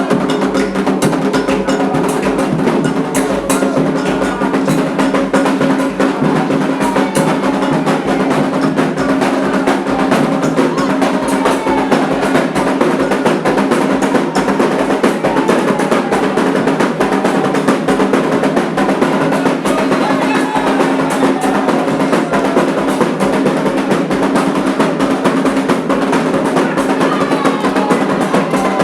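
Candomblé ritual drumming on atabaque hand drums, a fast, dense beat that keeps going without a break, with voices singing a chant over it.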